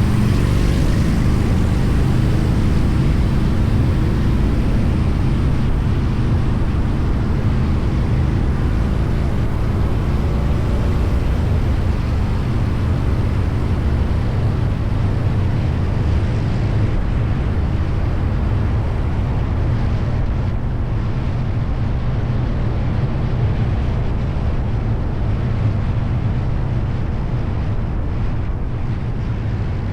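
Motorcycle running steadily at road speed, its engine drone mixed with heavy wind rush over the microphone.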